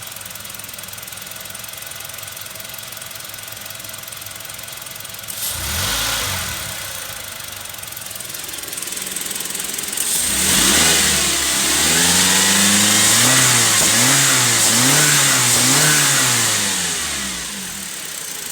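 Toyota Hiace 2.7-litre engine idling steadily. It is blipped once about five seconds in, then revved up and down several times in a row before dropping back to idle near the end.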